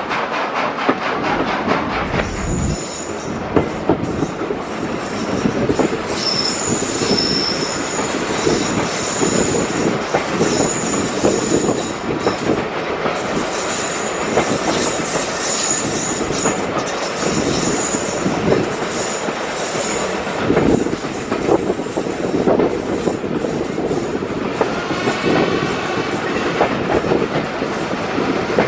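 British Railways Mk1 coaches running along the line, heard from on board: a steady rumble and clatter of wheels on the track with thin high flange squeals on top, and a louder, wavering wheel squeal near the end.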